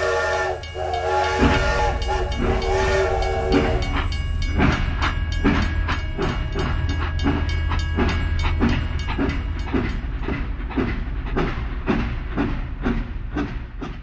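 Toy steam locomotive's sound effect: three blasts of a steam whistle, then a steady chugging beat over a low motor hum.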